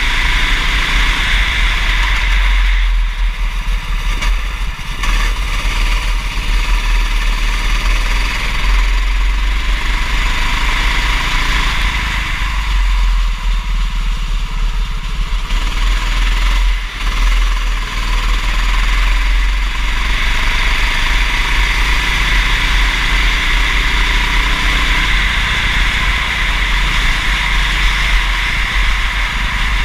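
Kart engine running at race pace, its pitch rising and falling with the throttle, under a dense hiss and a heavy low rumble of wind on the microphone.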